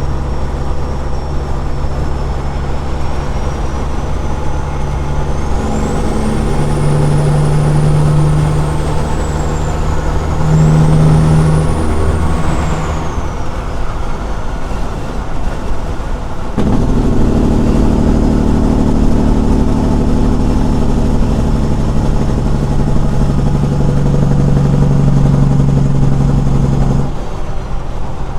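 Caterpillar 6NZ diesel in a semi truck running through straight pipes under way. The engine note climbs, falls away a little before halfway, then comes back suddenly louder about halfway through and holds steady until it eases off near the end, with a faint high whistle rising and falling above it in the first half.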